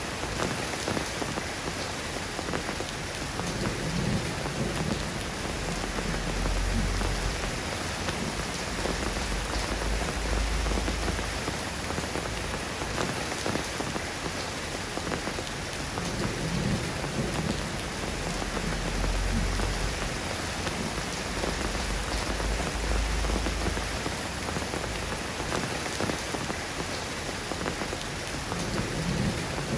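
Steady soft rain falling and pattering, with deep low rumbles that swell and fade several times.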